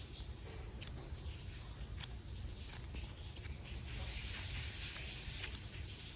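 Soft clicks and rustling from super clay and its small packaging being handled and opened, with a denser rustle about four seconds in, over a steady low hum.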